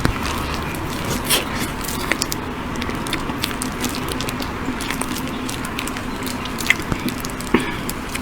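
Close-miked eating of soft cake: chewing and wet mouth sounds with many short, sharp clicks and smacks scattered throughout.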